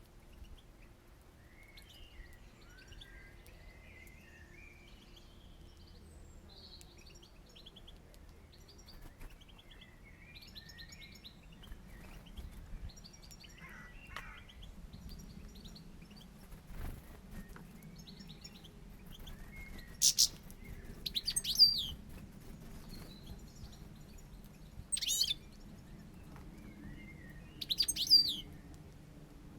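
Small birds at a feeder twittering and calling, soft at first, with four loud, sharp calls close to the microphone in the second half.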